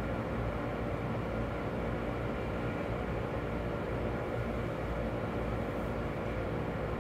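Electric local train running, heard from inside the passenger car: a steady rumble of wheels on rail with a faint steady tone above it.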